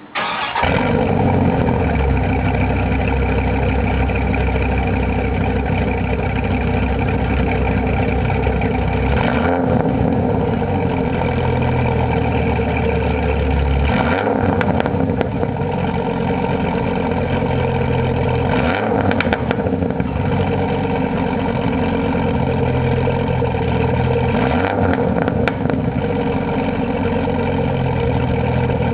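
Dodge Ram SRT-10's 8.3-litre V10 engine starting through a home-built exhaust system, then running steadily at idle, its low note shifting slightly every few seconds.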